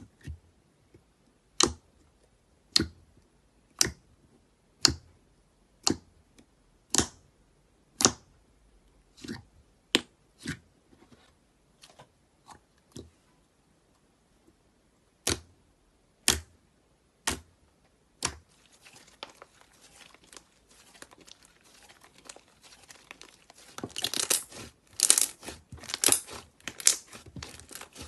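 Slime being pressed and worked by hand: sharp pops about once a second, then a dense, crunchy crackling that builds to its loudest near the end.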